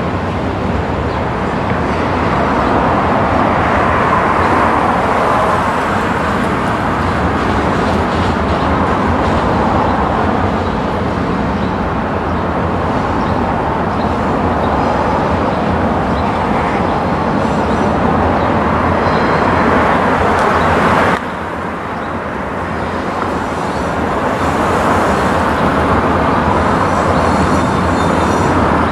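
Freight train rolling past: steady rumble and clatter of cars on the rails. About two-thirds of the way through the sound breaks off abruptly, drops, then builds again, with faint high squeals near the end.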